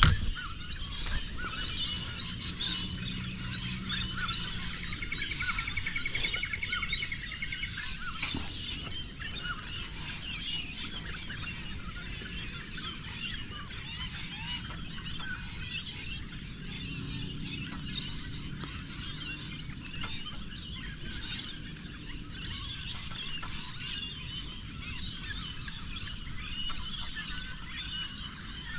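Birds chirping and calling, a dense chorus of many short chirps. About five seconds in there is a brief even trill.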